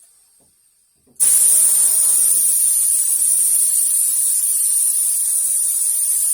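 Paint being sprayed: a loud, steady spray hiss that starts suddenly about a second in and then holds.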